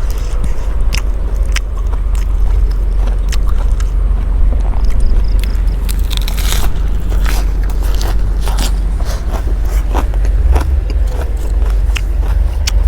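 Close-up chewing and crunching of crisp food, with many short crackling bites, over a steady low rumble.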